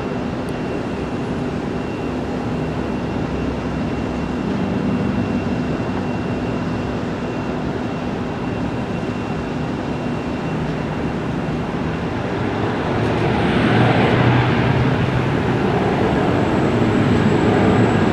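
Aircraft engines running, a steady drone with a faint whine that grows louder about thirteen seconds in.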